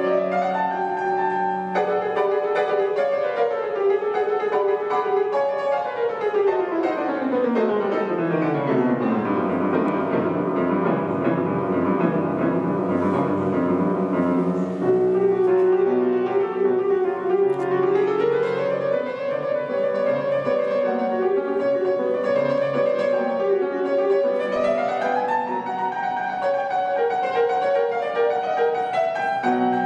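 Solo piano playing a classical piece, with a long descending run of notes about six to nine seconds in and quick upward runs at about 18 and 25 seconds.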